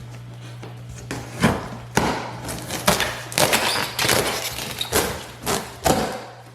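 Cardboard box being handled and pulled open: irregular rustling, scraping and light knocks from about a second in until near the end, over a steady low electrical hum.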